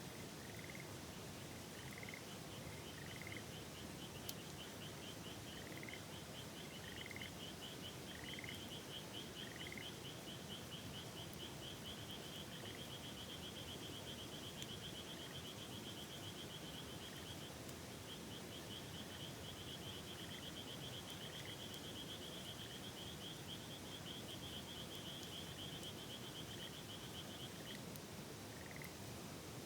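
Frogs calling over the steady rush of a river: one long, fast trill runs most of the time, broken briefly past the middle, while shorter rising chirps repeat about once a second and thin out toward the end. One sharp click sounds about four seconds in.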